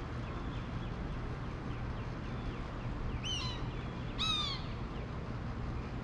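Two harsh, caw-like bird calls, about a second apart, the second louder, over faint rapid chirping from another bird and a steady low background rumble.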